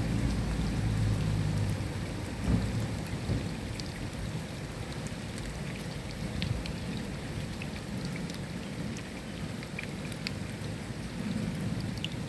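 Steady rain falling, with scattered sharp drop ticks. A low rumble of thunder fills the first couple of seconds and dies away.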